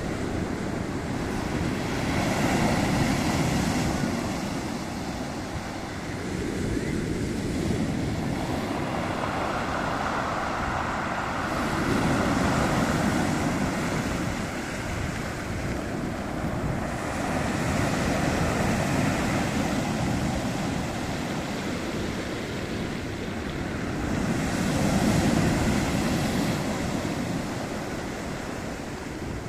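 Sea surf, waves rolling in and washing ashore in slow swells that rise and fall every several seconds.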